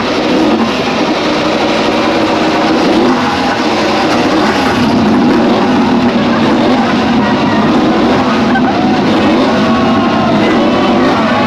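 Ducati Desmosedici GP25 MotoGP racing bike's 1000 cc V4 engine revving loudly and continuously, its pitch rising and falling with the throttle.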